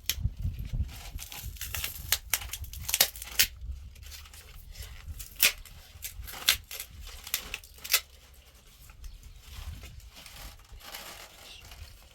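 Irregular sharp clicks and crinkling handling noise, loudest in the first eight seconds, over a steady low rumble.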